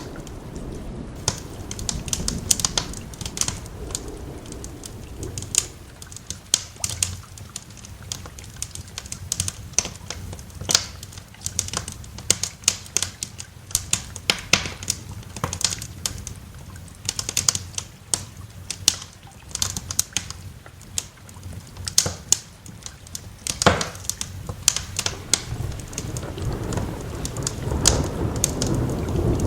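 Wood fire crackling in a fireplace, with many irregular sharp pops, over a low rumble of rain that swells near the end.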